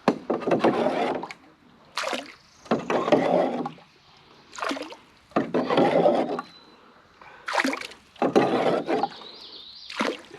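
Paddle strokes in water from a small jon boat: about five swishing strokes, each around a second long and a couple of seconds apart.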